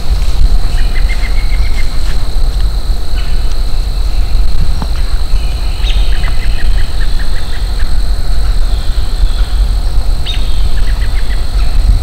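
Three short runs of quick bird chirps, each lasting about a second, near the start, around the middle and near the end. They sit over a steady low outdoor rumble and a faint steady high tone.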